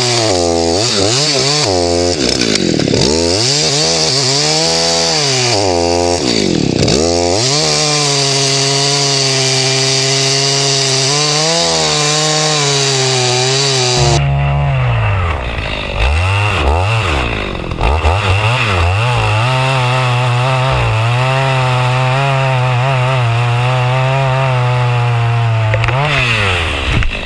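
Chainsaw at full throttle cutting through a tree trunk, its engine pitch repeatedly sagging and recovering as the chain loads up in the wood. Partway through the tone changes abruptly, and more dips follow before the engine settles into a steady high-speed run.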